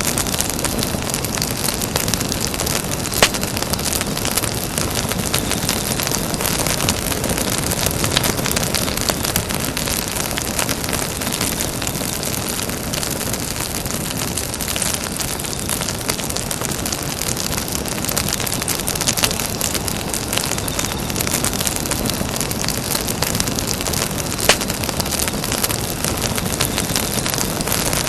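Campfire burning with a steady dense crackle and a few louder, sharper pops, the clearest about three seconds in and another near the end.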